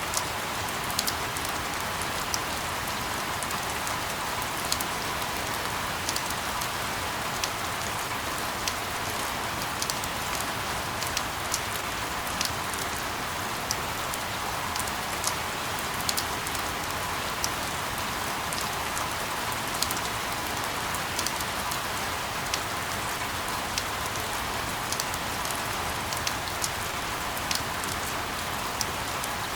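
Steady rain, an even hiss with frequent sharp drop ticks scattered through it.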